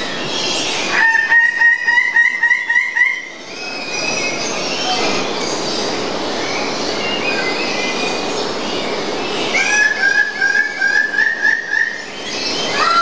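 A bird calls in a loud, rapid series of repeated notes, about four a second, rising slightly in pitch. The series comes twice, once about a second in and again near the end, over a steady chorus of many other birds chirping.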